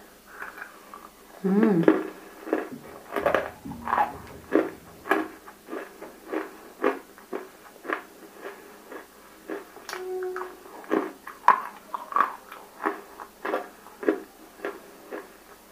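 Biting and chewing of water-soaked chunks of fully roasted nakumatt (baked edible clay), a run of sharp crunches about two a second, loud and close to the microphone.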